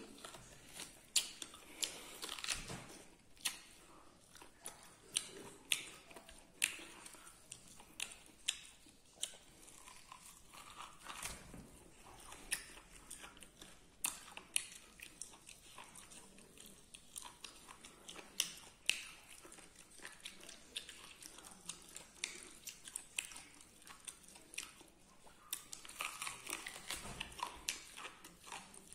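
A person chewing and eating beef with wet mouth sounds: irregular smacks and clicks, roughly one or two a second.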